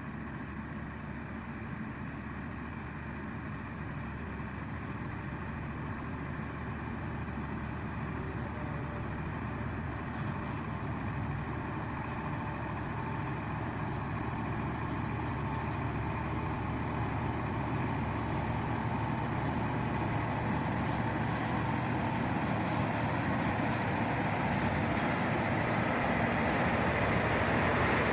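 Truck engine running steadily, growing gradually louder over the whole stretch as the truck approaches.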